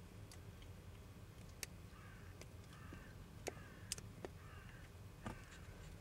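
A faint series of about five short bird calls, each dipping in pitch, begins about two seconds in over a steady outdoor background, with several sharp clicks scattered through it.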